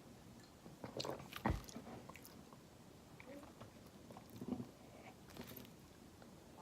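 Faint mouth sounds of people sipping and swallowing an energy drink, with a few sharp clicks and one louder knock about a second and a half in.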